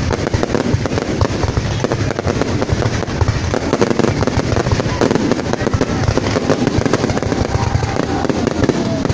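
Fireworks going off in a dense, continuous barrage: many overlapping bangs and crackles with no pause.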